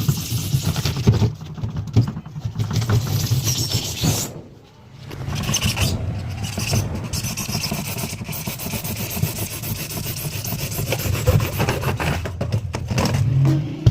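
Rough scraping and rubbing from hands-on work on a refrigerator's freezer plate, with a short break about four and a half seconds in.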